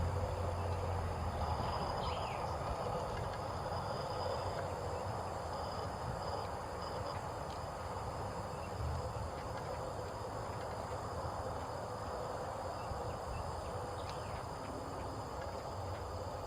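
Steady outdoor background noise on a hot summer day: a broad even hiss and a low rumble, with a faint high insect drone. Two faint short chirps come through, about two seconds in and again near the end.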